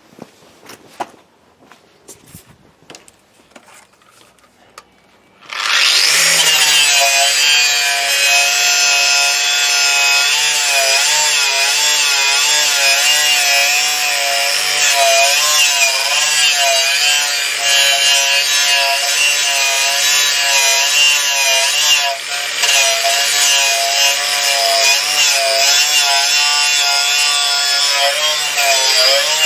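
A few light clicks and knocks, then about five seconds in a handheld power tool starts and runs continuously under load, its whine wavering in pitch as it bites into the work.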